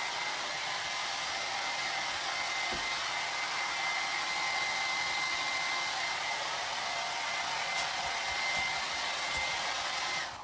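Hair dryer blowing steadily with a thin high whine, switched off near the end.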